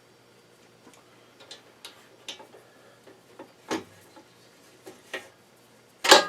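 Scattered light clicks and taps of small parts and tools being handled during a hose-fitting repair, irregular and a second or so apart, with a sharper knock near the end.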